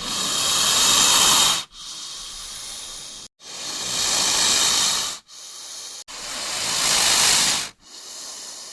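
An animal hissing: three long hisses, each swelling louder and then stopping, with softer hissing between them.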